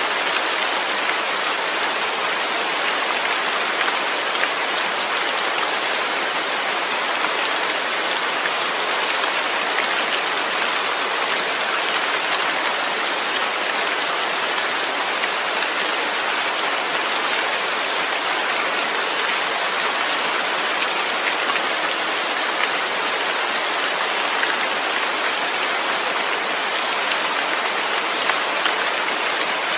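Steady, even rain, falling continuously with fine drop patter and no let-up.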